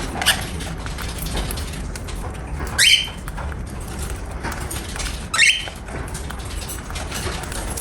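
Cockatiel giving two short, loud calls, about 2.5 seconds apart, over faint scattered chirps and ticks.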